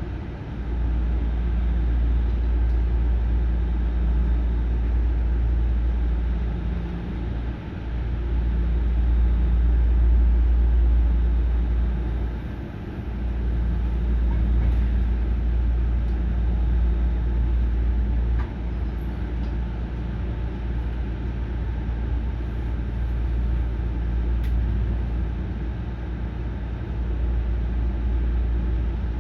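Hankyu 9300-series train: a steady low rumble that dips briefly three times, with a few faint clicks.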